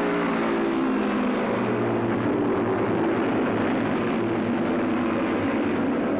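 Several racing motorcycle engines running together, a steady blend of engine notes whose pitches drift slightly.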